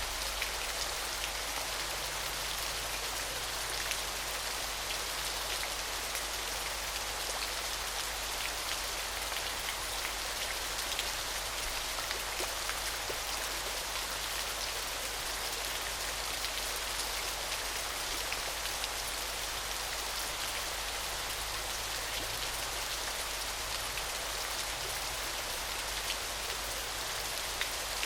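Small waterfall splashing steadily, a constant hiss of falling water full of fine droplet patter.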